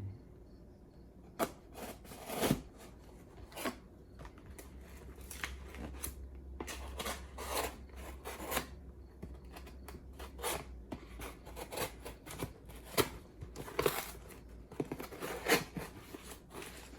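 Packing tape and cardboard of a shipping box being cut open: a run of irregular scraping, slicing and snipping strokes, with a few sharper ones standing out.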